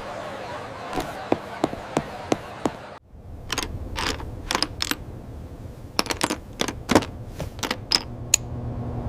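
Irregular series of sharp clicks and taps, a few a second, over a low rumbling background; a steady low drone comes in about a second before the end.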